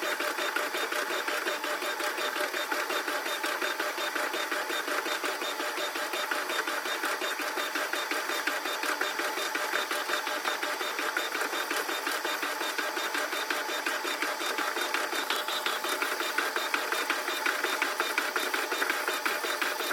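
Washing machine running, its sound sped up about ten times into a fast, steady mechanical chatter with no low end.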